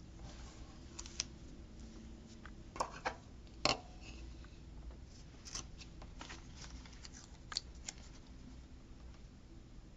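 Faint rustling and scattered light clicks of paper stickers and sticker sheets being handled and pressed onto a planner page, the sharpest click a little under four seconds in.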